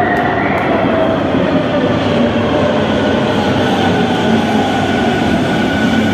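NM-02 rubber-tyred metro train running, a steady loud roar with high whining tones from its running gear.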